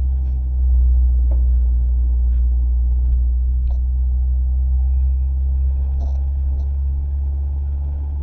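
Mazda MX-5 ND driving slowly, heard from inside the cabin as a steady low rumble from its four-cylinder engine and the road, fading a little toward the end, with a few faint clicks.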